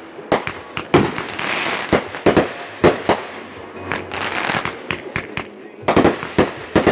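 Fireworks going off close by: irregular sharp bangs and crackling pops, several in quick clusters, with a hissing rush between them.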